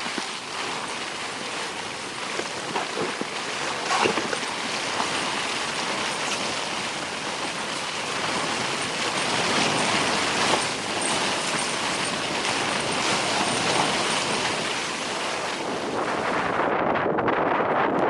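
Strong tundra wind blowing, a steady rushing hiss with a few faint knocks; near the end the high hiss drops away, leaving a lower, gustier rush.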